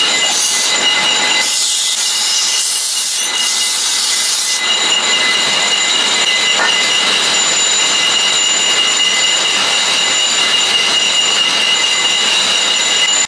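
Steady, loud, high-pitched metallic screech over a hiss, with a few sustained whining tones: a power tool working on metal.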